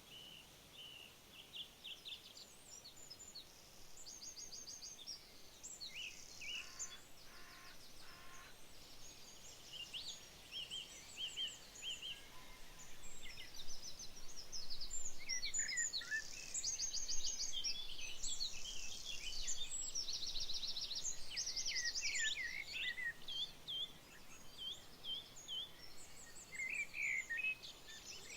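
Several birds singing and calling at once: overlapping chirps, rapid trills and short whistled phrases, thickest in the middle.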